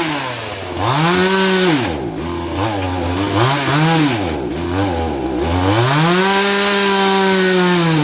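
Chainsaw engine running at high speed, its pitch dropping and climbing back several times as the throttle is eased and opened again.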